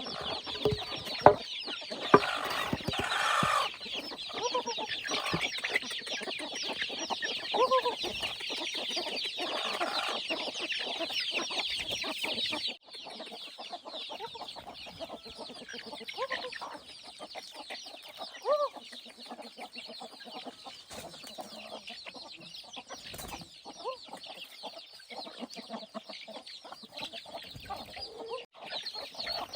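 Chickens clucking, with short arching calls now and then, over a dense, high chirping. Two sharp knocks come about a second and two seconds in.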